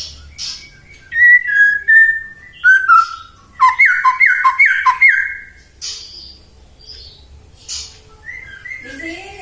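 White-rumped shama (murai batu) singing: clear whistled phrases, then a loud run of about four falling notes in the middle, followed by softer, higher scratchy chatters.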